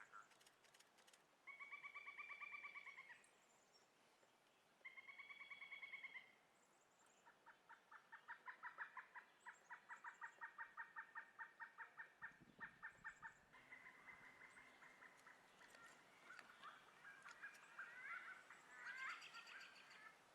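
Pileated woodpecker calling: two short buzzy trills, then a long run of rapid, even notes lasting about six seconds, followed by softer scattered notes and a few light taps near the end.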